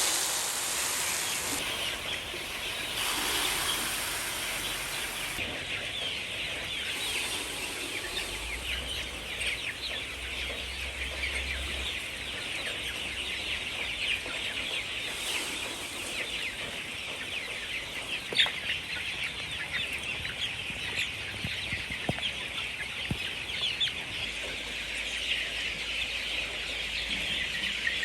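A flock of chickens clucking and cheeping together, a steady chorus of many overlapping short calls with a few louder single notes standing out.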